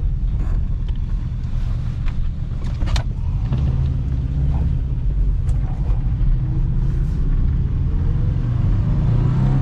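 Subaru BRAT's swapped-in engine running under way, a steady low rumble with scattered clicks and knocks, its note rising a little near the end.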